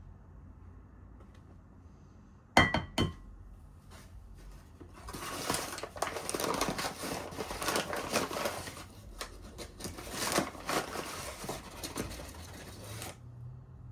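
Kitchen handling sounds: two sharp clinks about two and a half seconds in, then about eight seconds of dense rustling and crinkling that stops suddenly near the end.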